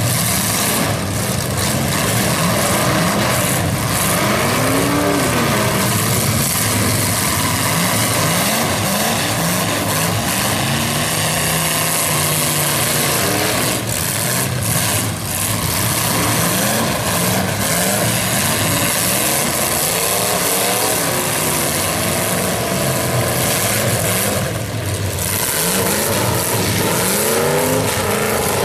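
Several demolition derby cars' engines revving hard over and over, their pitch climbing and dropping, with occasional bangs as cars crash into each other.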